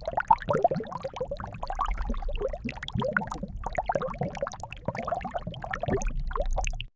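Liquid pouring and gurgling in a continuous run of short bubbling glides, cutting off abruptly just before the end.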